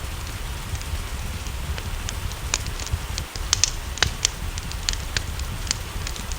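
Wood fire crackling with sharp, irregular pops over a steady hiss of rain and a low rumble.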